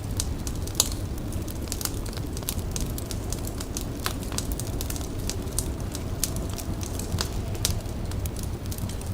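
A fire crackling, with many sharp irregular pops and snaps over a steady low rumble; one pop stands out about a second in.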